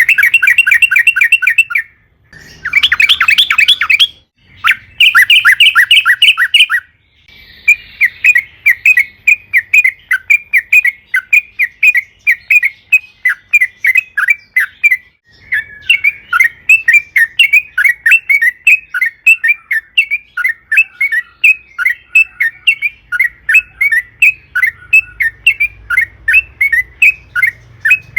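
Yellow-vented bulbul (trucukan) singing a long, fast series of chattering notes, several a second. There are three short loud bursts in the first seven seconds, then an unbroken rapid run to the end.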